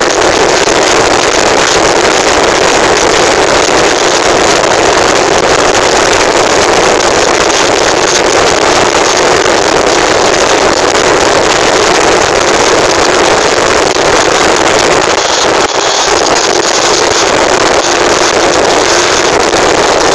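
Loud, steady wind rush on the microphone mixed with the noise of a stock-engined vehicle held near its top speed of about 130 km/h, with a brief dip about three-quarters of the way through.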